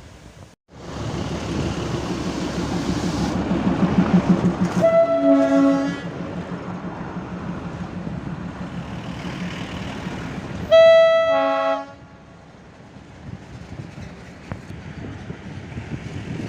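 Darjeeling Himalayan Railway diesel locomotive running, its engine growing louder over the first few seconds, and sounding its horn twice, each blast about a second long and about six seconds apart.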